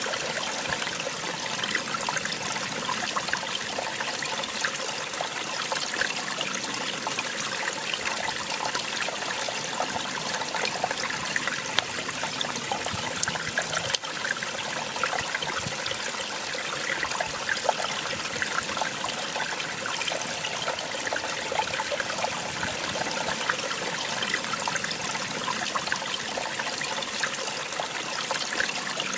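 Small waterfall splashing and trickling steadily, an even rush of falling water with fine splashes through it. A single brief click comes about halfway through.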